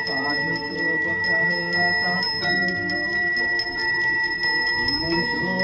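A bell rung continuously with rapid, even strikes, its high ringing tone held steady, over voices chanting.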